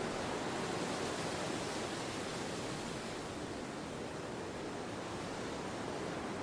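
Steady wind ambience: an even rushing noise that swells and eases slightly, with no gusts or other sounds standing out.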